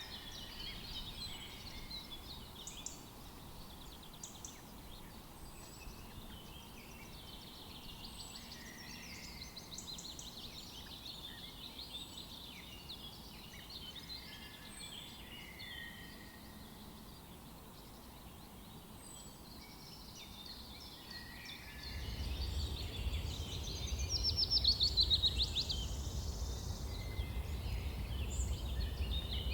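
Several songbirds chirping, whistling and trilling together in a forest chorus, with a loud rapid trill toward the end. A low rumble comes in under the birdsong about three quarters of the way through.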